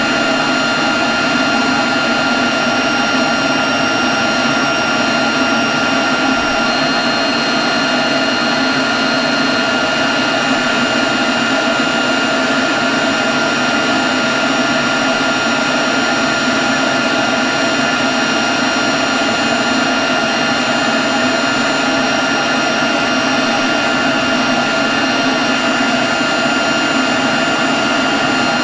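Leaf blower running steadily at constant speed: an even rush of blown air with a steady whine over it.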